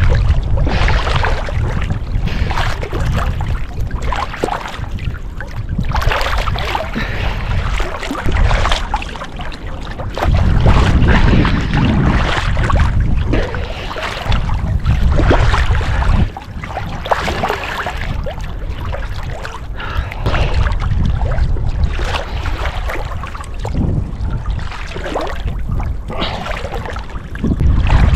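Gusty wind buffeting the microphone in heavy, uneven low rumbles, over choppy open water splashing and lapping.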